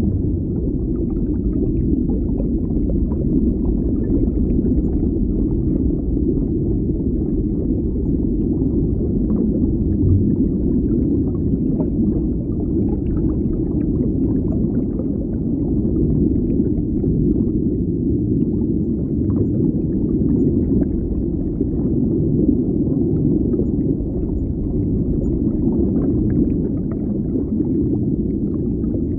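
Underwater ambience: a steady low, muffled rumble of water with faint scattered bubbling ticks.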